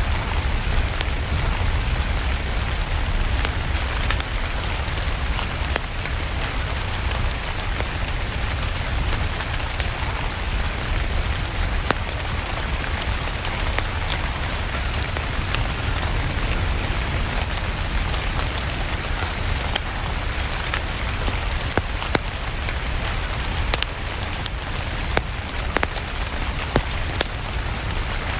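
Steady rain with a low rumble underneath, sprinkled with scattered sharp crackles from a fireplace log fire.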